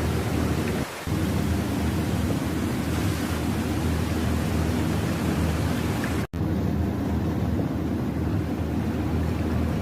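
Steady low rumbling noise that drops out briefly about a second in and again past the middle.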